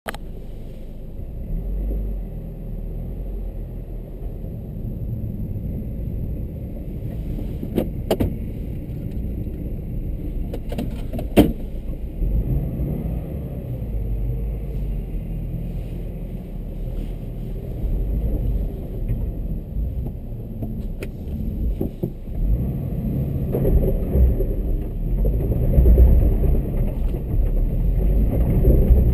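Subaru BRZ's flat-four boxer engine running at low speed, heard from inside the cabin, getting louder near the end as the car pulls away. A few sharp clicks sound in the first half.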